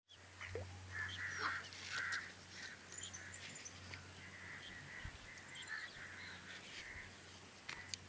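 Birds calling in the background, a string of short repeated calls over a low steady hum.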